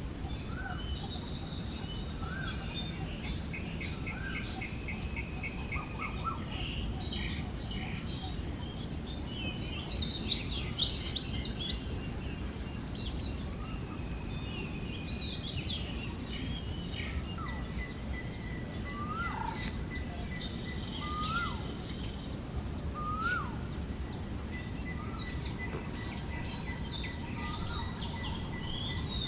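Forest ambience: a steady high-pitched insect drone under scattered bird chirps and short rising calls, over a low rush of wind.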